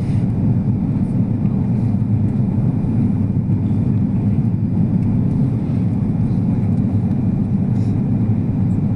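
Steady rumble of an airliner's engines and rushing air heard inside the passenger cabin during landing, with no distinct knocks or changes.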